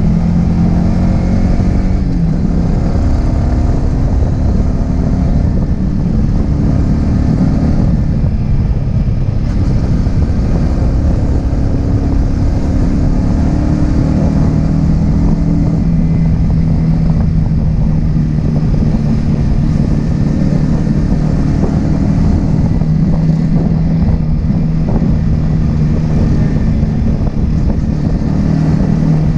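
Yamaha R15M's 155 cc single-cylinder engine running under way. Its note holds steady for long stretches, drops off about two seconds in and picks back up about halfway through.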